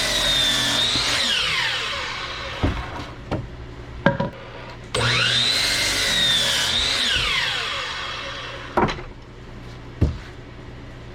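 Electric saw crosscutting 4-inch log posts, twice: each time the motor whines at speed, then winds down with a falling pitch. Sharp wooden knocks come between and after the cuts as the logs are handled.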